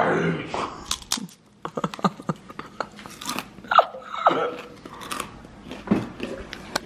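Sea salt pita chips being bitten and chewed close to the microphone: a run of irregular crisp crunches and cracks.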